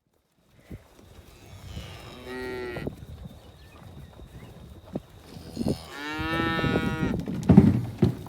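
Cattle mooing twice: a short call about two seconds in, then a longer one from about five and a half seconds. A few low thumps follow near the end.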